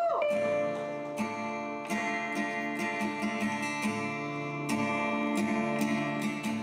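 Acoustic guitar strumming and plucking chords, each chord ringing on until the next, as the instrumental opening of a song.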